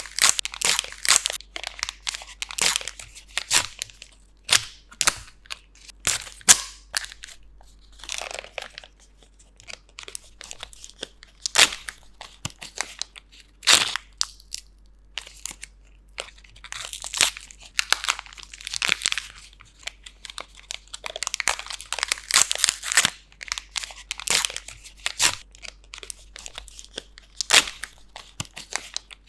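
A package being unwrapped by hand: its wrapping crinkles, crackles and tears in irregular bursts of sharp snaps, with a short pause about halfway through.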